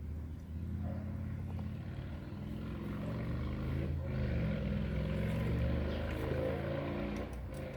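An engine hum that grows louder and then fades, its pitch drifting as it goes, like a motor passing by.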